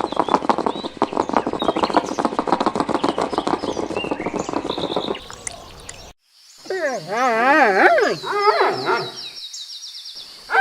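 Animal calls from two clips joined by a short cut. First comes a dense, rapid chatter of many short calls for about five seconds. Then, after a brief break, a wavering call rises and falls in pitch several times over a steady high whine.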